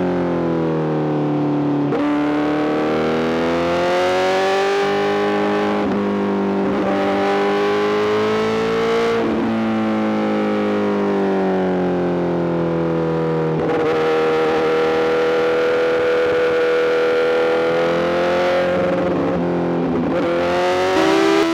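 Honda CBR1000RR-R SP's inline-four running through an Arrow GP full exhaust, engine speed rising and falling while riding, with several quick gear changes that make the pitch step suddenly.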